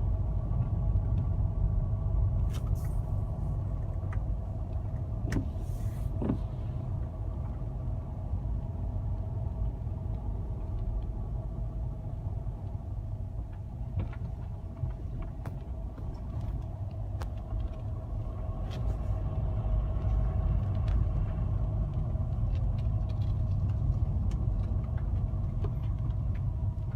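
A car driving, heard from inside: a steady low road-and-engine rumble with a constant hum over it and scattered small clicks and rattles. The rumble eases a little about halfway through, then picks up again.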